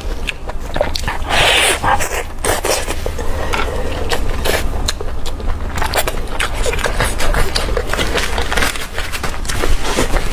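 Close-miked eating: someone chewing and biting food, with many quick wet clicks, smacks and crackles, over a steady low hum.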